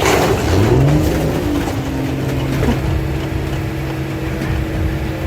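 An engine revs up, its pitch rising over the first second or so, then settles to a steady run.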